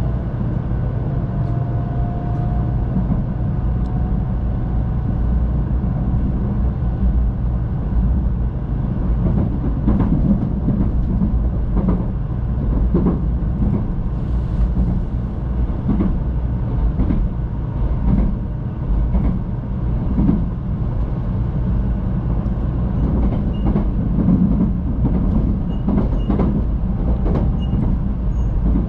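Cabin running noise of a JR West 500 series Shinkansen pulling out of the station: a steady low rumble with scattered sharp clacks of the wheels over the track, more frequent from about ten seconds in.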